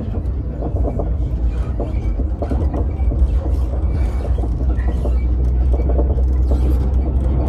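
Passenger train running with a steady, strong low rumble that grows slightly louder toward the end.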